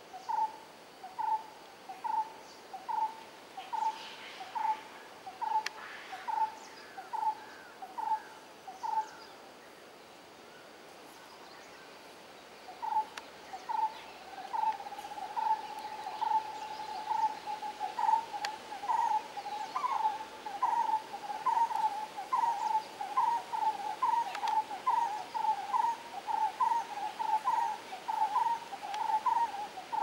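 A bird repeating a short, clear note about twice a second. It breaks off for about three seconds near the middle, then comes back faster, with the notes running together over a steady tone as if more than one bird is calling.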